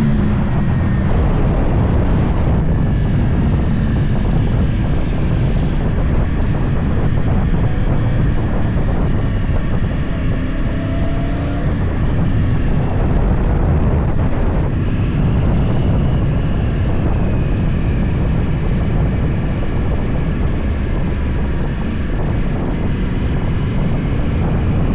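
Yamaha YZF-R1 crossplane inline-four with a full Akrapovič exhaust running under way, heard from on board the bike, with wind on the microphone. The engine note rises and falls with the throttle, with a few brief pitch glides around the middle.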